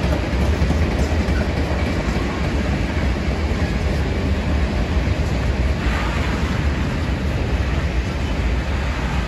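Freight train of loaded open-top wagons rolling past, its wheels on the rails making a steady, heavy rumble.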